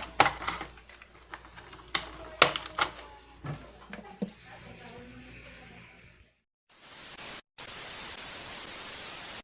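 Scattered sharp clicks and knocks of handling noise, fading to a brief dead silence about six seconds in, followed by a steady hiss of static.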